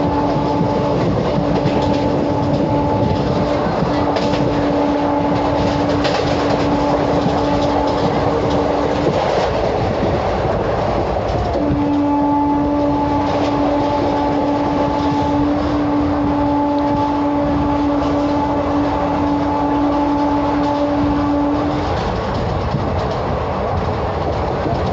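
A train running by with a steady noise of wheels on rails. Its horn blows two long, steady blasts, the first about nine seconds long and the second about ten, with a short break between them about ten seconds in.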